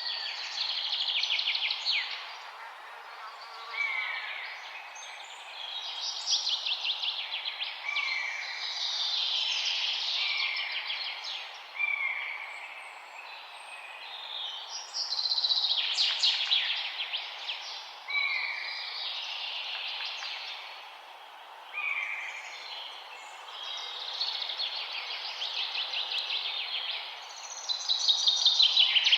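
Songbirds singing in a forest: every few seconds a fast, descending run of high notes, with short single whistled notes in between. Under the song is a steady background hiss.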